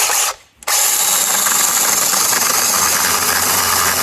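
Velotrex 8-inch cordless mini chainsaw briefly triggered, stopping for a moment, then running steadily as it cuts through a small maple limb.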